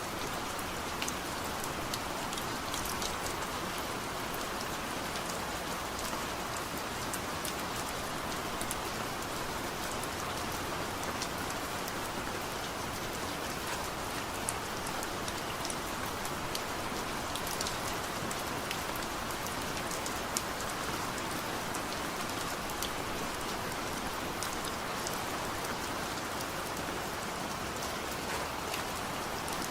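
Steady heavy rain falling, an even hiss with many fine drop ticks scattered through it.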